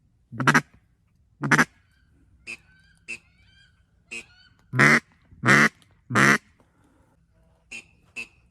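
Duck quacking: five loud, harsh quacks in two groups, with fainter, higher squeaky calls between and after them.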